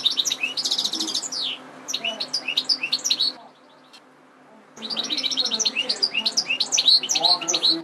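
European goldfinch singing two long phrases of fast, tinkling twitter separated by a pause of about a second, with the second phrase starting a little under five seconds in. A faint low hum runs underneath.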